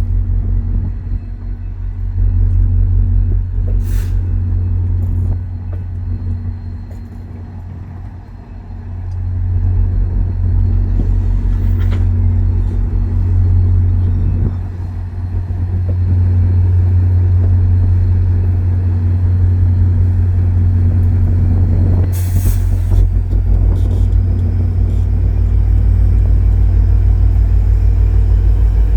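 Diesel locomotive engine running with a steady low rumble, easing slightly for a few seconds before building again. Short hisses of air a few times, typical of a train's air brakes.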